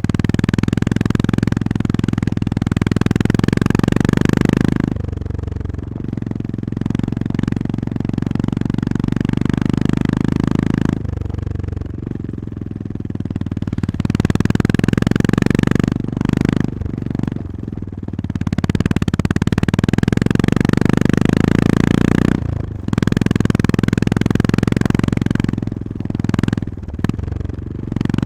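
Honda GB350S's air-cooled single-cylinder engine running under way, its pitch and level rising and falling with the throttle. It eases off briefly several times, about a dozen seconds in and again in the second half.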